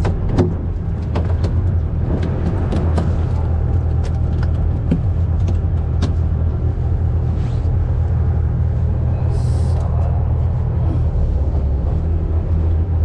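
Fishing boat's engine running steadily with a low hum, with scattered sharp clicks and knocks over it.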